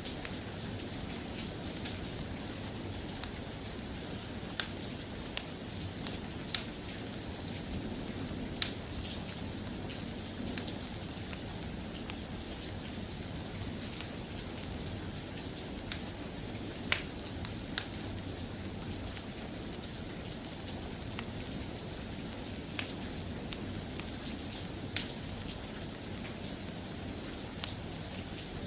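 Soft, steady rain, with about a dozen sharp ticks or pops scattered through it.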